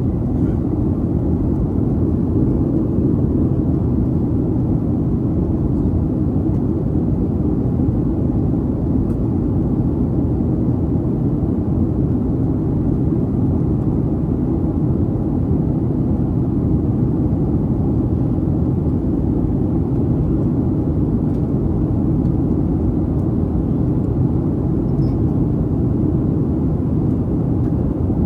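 Steady low rumble of a Boeing 737-800 heard from inside the cabin, with no change in pitch or level.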